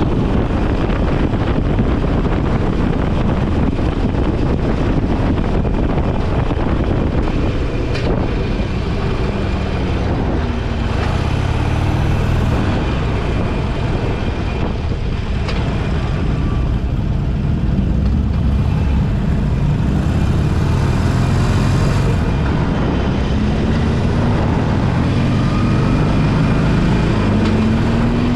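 Motorcycle engine running at road speed, with heavy wind noise buffeting the microphone. Near the end the engine note rises as it accelerates.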